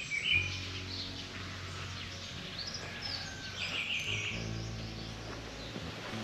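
Birds singing with short high chirps, loudest near the start and again just before the midpoint, over a steady low hum that shifts in pitch about four seconds in.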